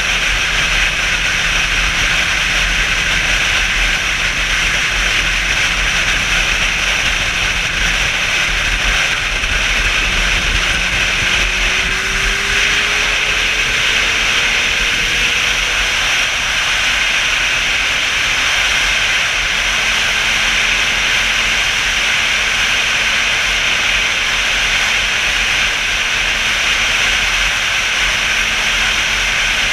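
Motorcycle ride heard from on board: a steady rush of wind noise over the microphone, with the engine's faint hum underneath rising in pitch about halfway through.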